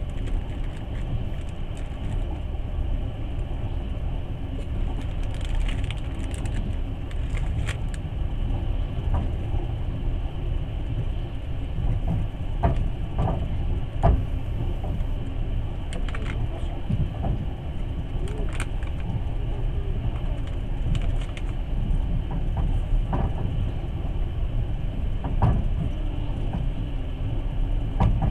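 Passenger train carriage running along the track, heard from inside: a steady low rumble with irregular knocks and clicks, one louder knock about halfway through.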